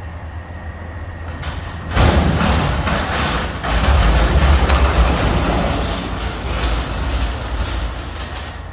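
Garbage truck's diesel engine running, then revving up loudly about two seconds in with a heavy rumble and a hissing rush, surging again a moment later before easing back to a steady hum near the end.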